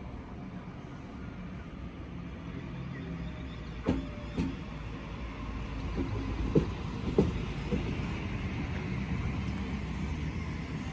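Train approaching through a station, a low rumble building slowly, with several sharp clunks a few seconds in.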